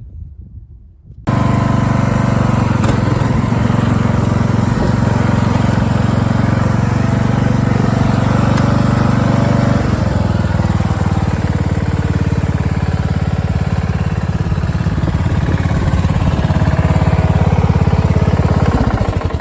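Riding lawn mower engine running steadily and loudly, starting abruptly about a second in. Its tone shifts partway through, and it stops shortly before the end.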